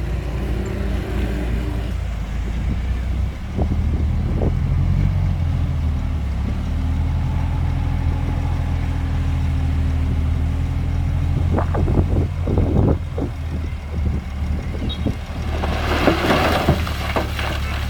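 Heavy earthmoving machine's diesel engine running steadily, picking up about three and a half seconds in. Several sharp knocks come around twelve seconds, and a short burst of rushing, clattering noise about sixteen seconds in.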